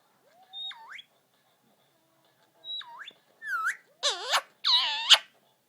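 Indian ringneck parakeet calling: two quick whistles that swoop down and back up, then a run of louder, fuller calls near the end.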